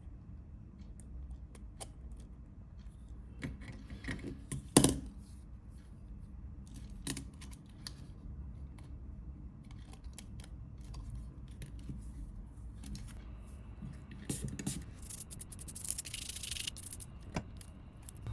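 Small clicks, taps and rubbing of parts being handled on a repair bench, with one sharper click about five seconds in and a brief hiss a couple of seconds before the end.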